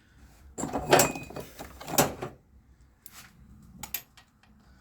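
Metal clinks and knocks of tools and parts being handled during starter refitting, with two louder knocks about one and two seconds in and a few lighter ticks later.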